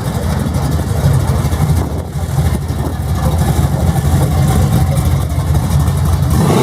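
Loud engine being revved and held at high revs, staying loud throughout.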